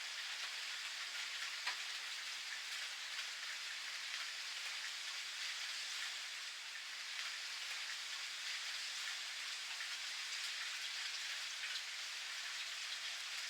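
Steady rain falling, an even hiss of drops pattering, with single drops ticking out a little louder now and then.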